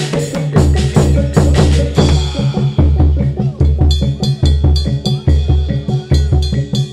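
Loud, fast percussion music of a live reog troupe: rapid repeated drum strokes over deep booming bass beats.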